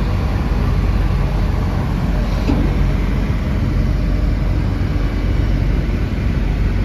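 Diesel tractor engine running steadily with a low rumble.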